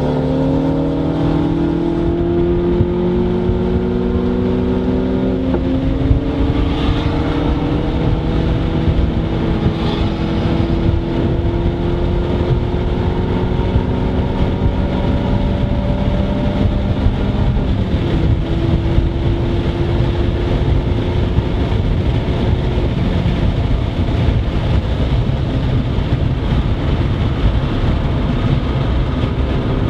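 MINI hatchback's engine heard from inside the cabin, driven hard on a track lap. The engine note climbs slowly and steadily, dropping in pitch at a gear change about five seconds in and again around eighteen seconds in, over constant road and wind noise.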